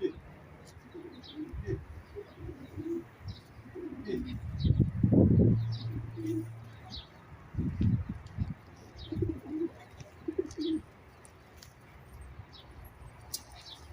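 Pigeons cooing in short, low, repeated calls, with small birds chirping in brief high notes among them. A louder low burst comes about five seconds in.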